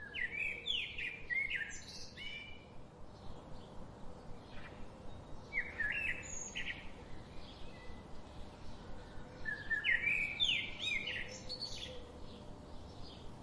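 A songbird singing three short phrases of quick, downward-sliding whistled notes, a few seconds apart, over faint steady background noise.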